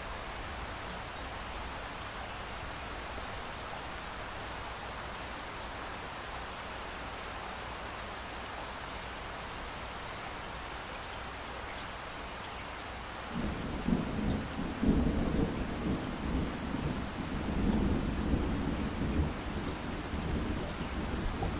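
Steady rain hiss, then about two-thirds of the way through a low rumble of thunder starts suddenly and keeps going, rising and falling, over the rain.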